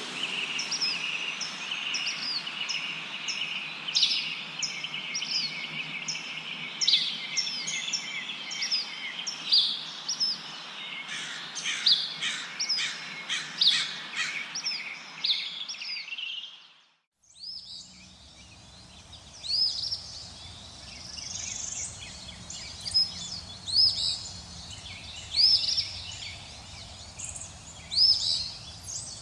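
Many small birds chirping over a steady rustle of wind in leaves. About two-thirds of the way through, the sound fades out briefly and comes back as a different recording, with repeated short rising chirps.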